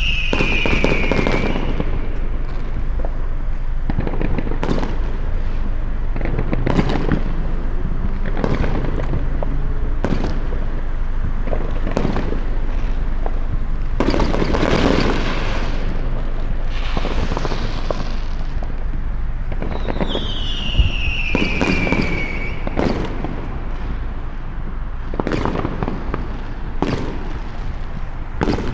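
Consumer fireworks going off across the neighbourhood: a long run of irregular bangs and pops, each trailing off in an echoing rumble, over a steady low rumble. Twice, at the very start and about 20 seconds in, a high whistle falls in pitch for a couple of seconds.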